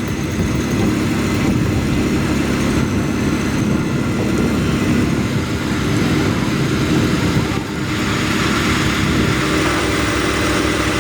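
Heavy vehicle engine running steadily under load, with a brief dip about seven and a half seconds in.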